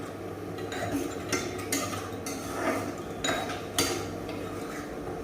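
A metal spatula scraping and clinking against a pan in irregular strokes while fried rice is stirred, over a low steady hum that stops about four and a half seconds in.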